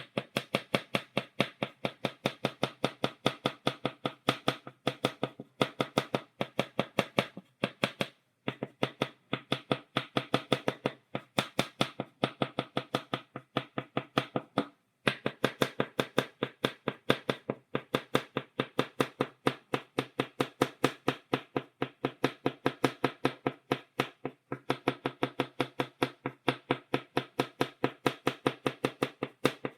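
Chalk tapping against a blackboard, dotting in quick, even taps several times a second, with a few brief pauses.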